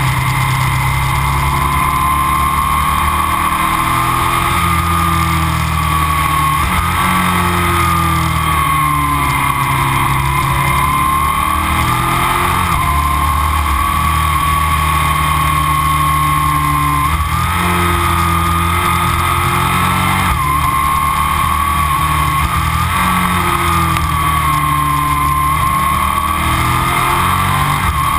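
A 2000 Aprilia RSV 1000 V-twin with Arrow aftermarket silencers running under way. Its engine note drifts up and down in pitch and jumps abruptly several times, about every three to six seconds.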